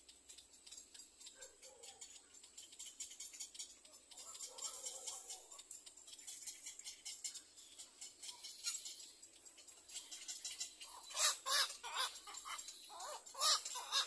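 Birds giving short, harsh calls in two quick runs in the second half, the loudest sounds here, over a steady high chirring.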